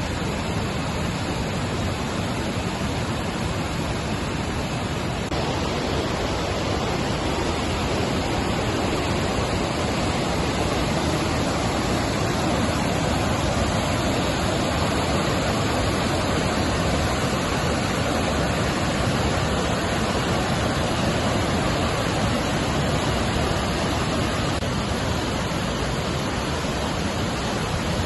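Steady rushing noise with no distinct events, slightly louder from about five seconds in.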